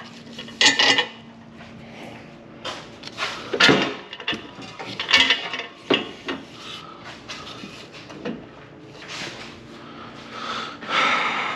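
Irregular metallic clanks and knocks of hand tools and exhaust parts as a car's axle-back exhaust is unbolted and taken down.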